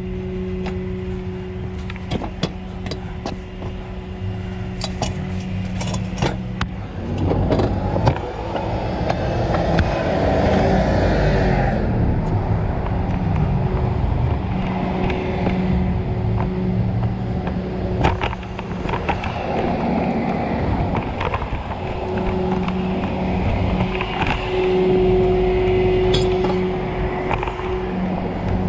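Tow truck's engine running with a steady hum. Clicks and knocks sound over it in the first several seconds, and a louder rush of noise comes in around 7 to 12 seconds in.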